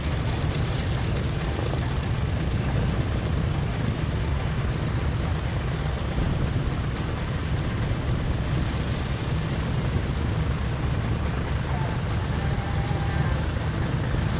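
Pitts S-2B biplane's six-cylinder Lycoming engine and propeller running steadily at low power as the aircraft rolls out and taxis after landing.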